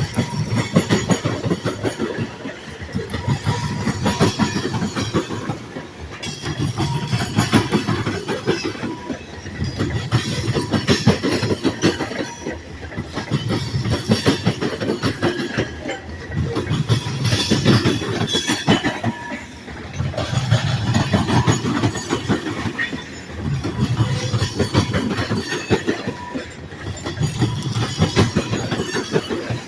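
Great Lakes Central freight train's cars rolling past, their wheels clacking over the rail joints, the sound swelling and fading every few seconds as each car goes by.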